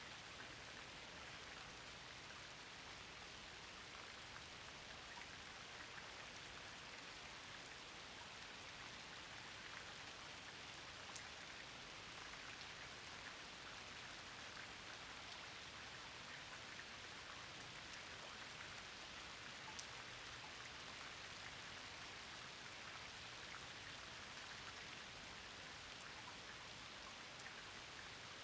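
Steady rain falling: a soft, even hiss with scattered individual drop ticks.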